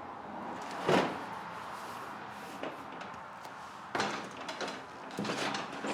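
A few hard knocks and clunks: a sharp knock about a second in, another about four seconds in, and lighter clunks near the end.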